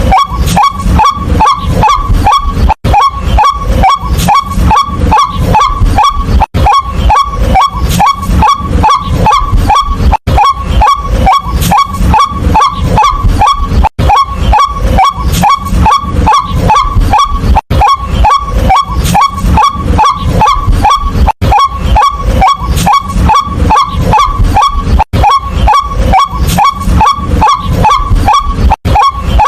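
White-breasted waterhen calling: a loud, rapid run of harsh repeated notes, about four a second, broken by brief gaps roughly every four seconds.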